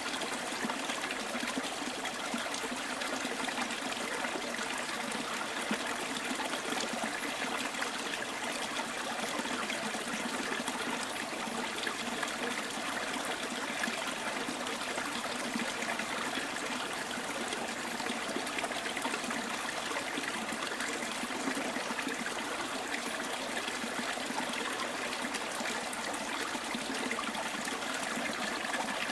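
Small stream trickling and burbling over stones, a steady, unchanging flow of water.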